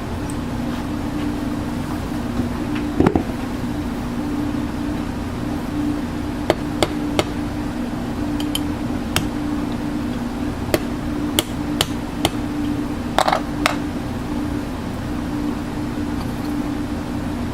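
A steady machine hum, with about ten sharp knocks or taps scattered through the middle.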